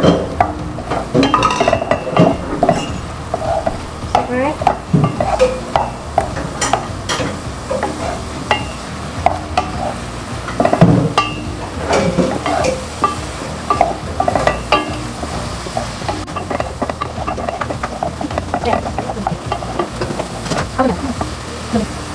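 Ground spice paste and aromatics sizzling in hot oil in a pot, with a wooden spatula stirring and scraping against the pot in irregular clicks and scrapes.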